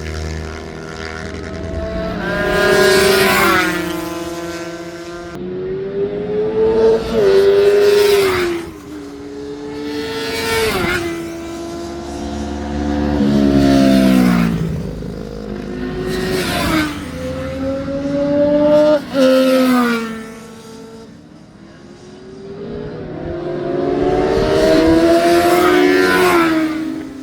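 Track-day motorcycles going by at speed, one after another, about five times. Each engine note rises and gets louder as the bike approaches, then drops in pitch as it goes past.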